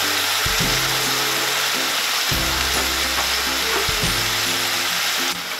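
Sliced mushrooms and onion sizzling steadily in oil in a steel wok, the mushrooms frying in the water they give off. Background music with low held notes plays underneath.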